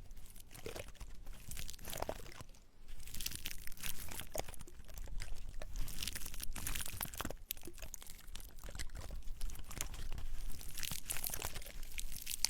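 Small dry pine cones rubbed and scratched close to the microphone, giving an irregular stream of crisp crackling crunches with a short pause about two and a half seconds in.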